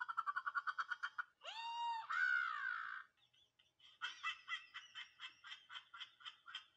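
Dubbed-in comic sound effects: rapid high-pitched cackling, broken in the middle by a short squawk that rises, holds and then falls, then more fast cackling from about four seconds in.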